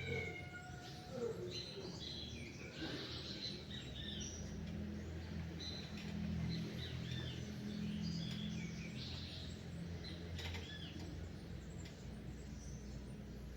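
Several small songbirds chirping and singing at once in a dawn chorus: many short, high chirps and trills throughout, with a few lower falling whistles near the start, over a steady low hum.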